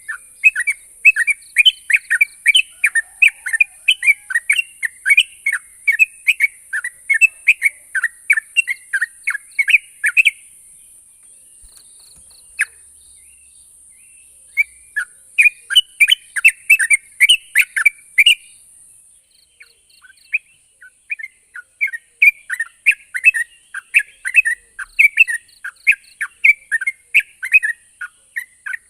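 Yellow-vented bulbul calling in long runs of short, quick notes, about three a second, with two pauses along the way. A steady high hiss sits underneath through the first two-thirds.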